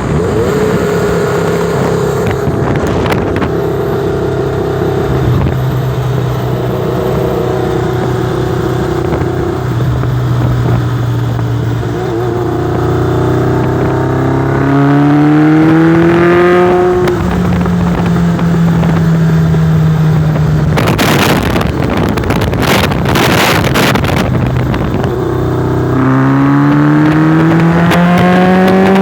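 Motorcycle engine running under way at light throttle. Its pitch holds steady, rises as it accelerates about halfway through, and rises again near the end, with a few seconds of wind rushing over the microphone in between. The bike is being ridden to test for a misfire.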